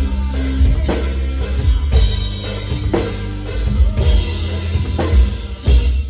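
Heavy metal music with a full drum kit: bass drum, snare and cymbals over a heavy, sustained low end, with a strong accented hit about once a second.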